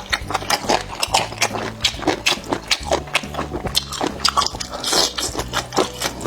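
Close-up chewing of sour-and-spicy boneless chicken feet: quick wet crunches and smacks, several a second, over background music with a steady bass.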